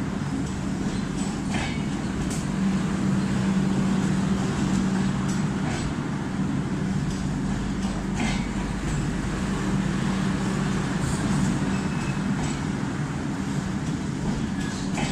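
Tejas Express passenger coaches rolling past at speed: a steady rumble of wheels on rails with a constant low hum, and occasional sharp clicks as wheels cross rail joints.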